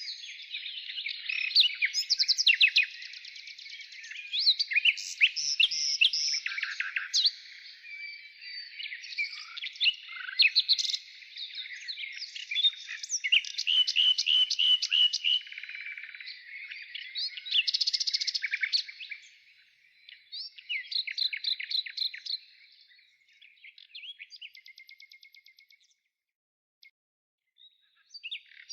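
Birds chirping and singing in a busy, overlapping run of quick chirps and trills, thinning out and falling quiet near the end.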